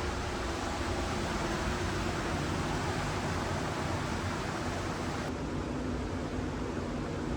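Steady drone of a ferry under way: a constant low engine hum under a rushing noise of water and air.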